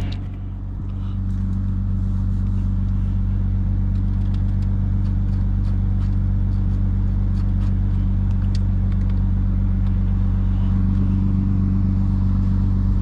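Lexus IS250's 2.5-litre V6 and road noise droning steadily, heard from inside the cabin while cruising, with a slight dip in level just after the start.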